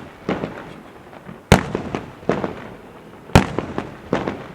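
Fireworks exploding. Two loud sharp bangs come about a second and a half and three and a half seconds in, each followed by smaller cracks and a trailing echo.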